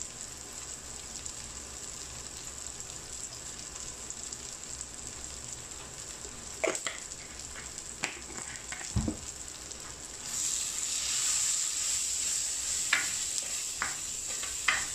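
Onions, tomatoes and spices frying in oil in a clay pot, a steady sizzle with a few sharp knocks. From about ten seconds in, the sizzle grows louder as the masala is stirred with a wooden spatula.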